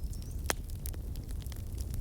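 Campfire of burning wood crackling: a scatter of sharp pops and snaps over a steady low rumble of the flames. The loudest pop comes about half a second in.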